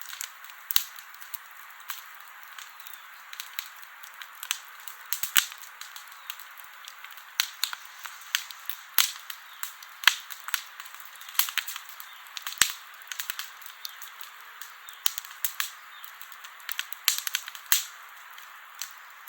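Wood campfire crackling: irregular sharp pops and snaps of burning wood over a soft, steady hiss, with louder cracks every second or two.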